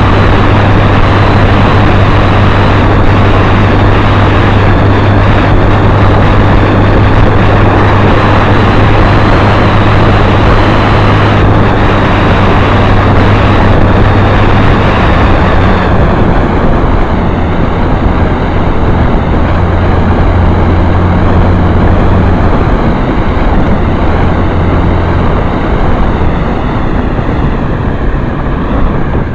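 Motorcycle engine running steadily while riding, with loud wind rush over the microphone. About sixteen seconds in, the engine note drops and the rush eases.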